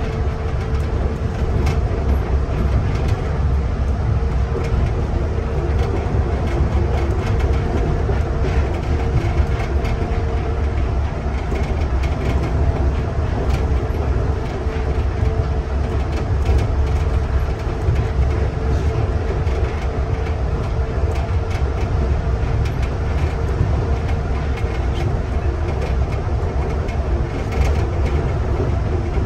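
Inside a Nippori-Toneri Liner car running along its elevated guideway on rubber tyres: a steady low rumble of running noise with a constant hum, and scattered light ticks.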